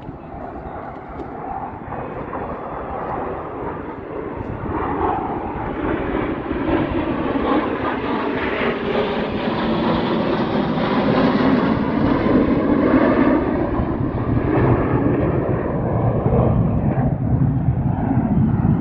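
Airplane engine noise in flight, a steady rushing sound that grows gradually louder.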